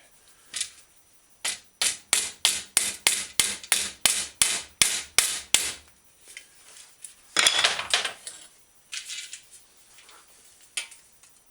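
A run of quick hammer strikes on metal, about four a second for four to five seconds, knocking at a smashed-down rivet in a steel bicycle fender to drive it out. A short rasping noise follows about two seconds later.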